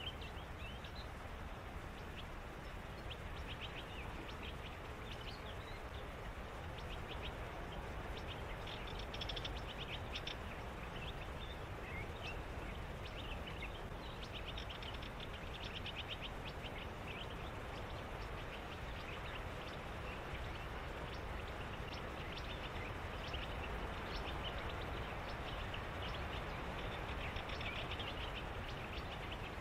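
Animals calling in a reedbed: repeated rapid trains of high chirps come and go over a steady low rumble of background noise.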